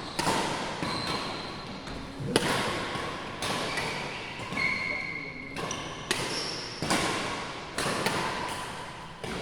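Badminton rally in a large indoor hall: rackets striking the shuttlecock about once a second, each hit ringing out in the hall's echo, with brief high squeaks of shoes on the court.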